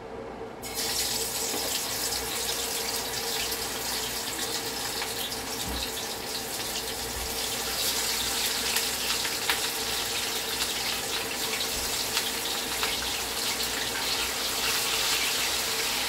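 Chicken back pieces sizzling and crackling in hot oil in a stainless steel frying pan. The sizzle starts abruptly about a second in as the first pieces go in, and grows a little louder as more are added.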